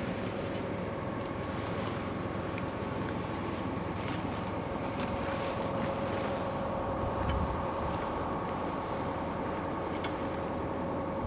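Boat's outboard motor running at a steady speed, an even hum that does not change in pitch.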